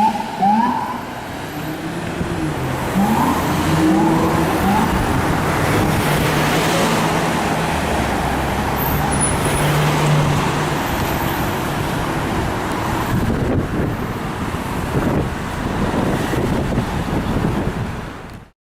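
Fire apparatus responding: an electronic siren yelping in quick rising sweeps, first briefly and again about three seconds in. Then a long steady air horn blast from about eight to ten seconds, all over engine and traffic noise. The sound cuts off suddenly near the end.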